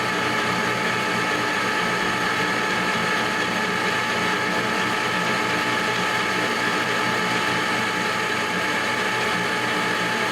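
Metal lathe running steadily, its gear train whining with several fixed tones, while a ball-turning tool takes a razor-thin shaving off a 6061 aluminium sphere.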